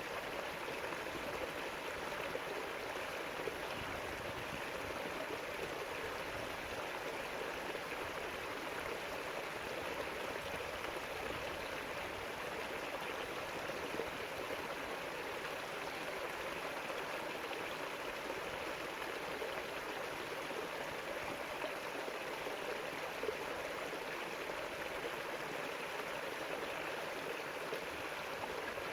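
River flowing steadily over rocks, a continuous rush of water with fine splashing and gurgling.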